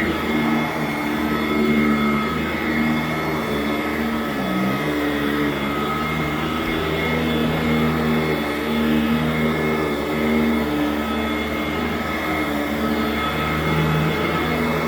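Sanitaire SC899 commercial upright vacuum running steadily as it is pushed over carpet, a steady motor hum with a whine above it. About four seconds in, its pitch dips briefly and then recovers.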